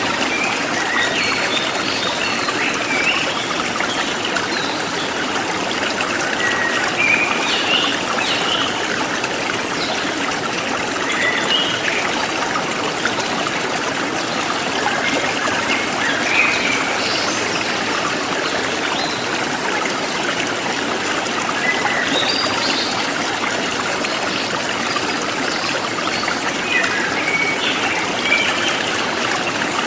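Forest stream running steadily over stones, with birds chirping in short calls scattered throughout.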